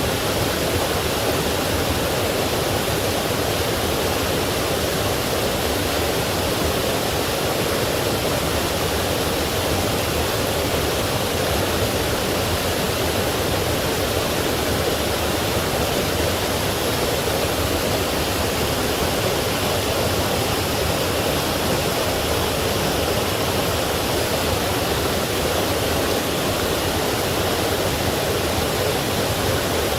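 Forest stream rushing over rocks in a steady, even wash of water noise.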